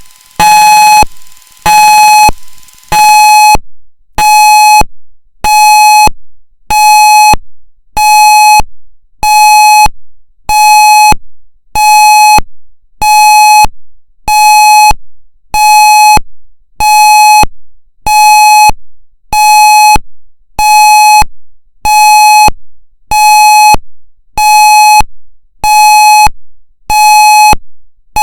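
Federal MCP warning siren sounding its pulse steady signal: one steady tone with a bright, buzzy edge, cut on and off about every 0.8 seconds, each blast trailing off in an echo. The first few seconds are more uneven before the pulses settle into an even rhythm.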